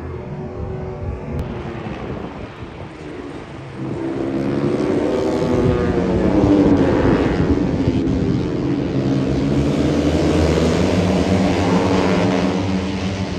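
Engines passing by, swelling loud about four seconds in and holding, their pitch bending as they go past.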